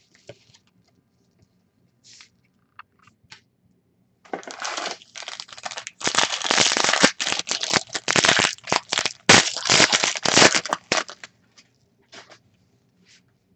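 Foil trading-card pack wrapper being torn open and crinkled, a dense crackling that starts about four seconds in and stops about eleven seconds in, with a few faint clicks before it.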